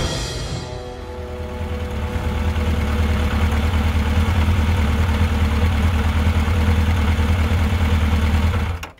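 Motorcycle engine running, growing louder over the first few seconds and then idling steadily with a low pulsing rumble, until it cuts off abruptly near the end.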